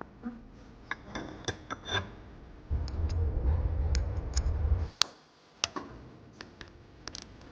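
Sharp metallic clicks and taps of parts being handled while a Porsche air-suspension strut is reassembled with a new original top mount. A low rumbling noise runs for about two seconds near the middle, louder than the clicks.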